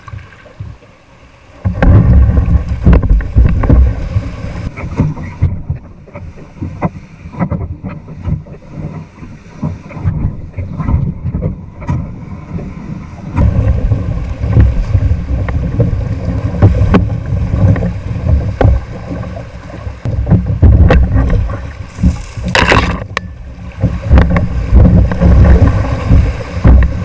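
A kayak running rapids: rushing, splashing water with heavy wind buffeting on the microphone and scattered knocks, surging from about two seconds in after a brief quieter start.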